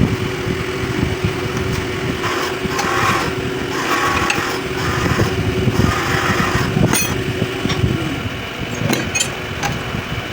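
A small motor-driven machine running with a steady hum over a dense rattle, with several short bursts of noise in the middle; the hum stops about eight seconds in, followed by a couple of sharp clicks.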